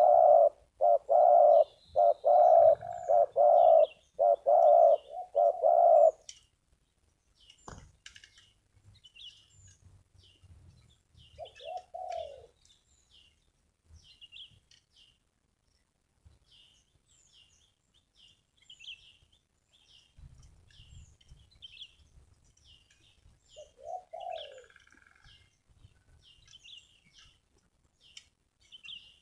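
Spotted dove cooing, a quick run of low, evenly spaced coos for about the first six seconds, then two single short coos later on. Small birds chirp faintly and high throughout.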